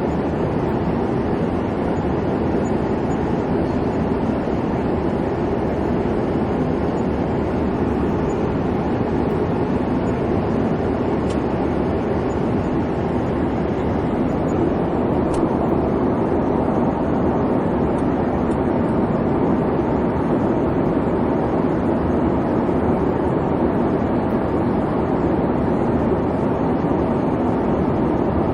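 Airliner cabin noise in flight: the engines and rushing air give a steady, even hum that does not change.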